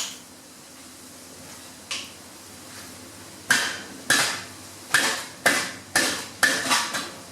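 A series of sharp metallic clanks, like metal striking metal: one at the start, another about two seconds in, then about seven in quick succession, roughly two a second, each ringing briefly.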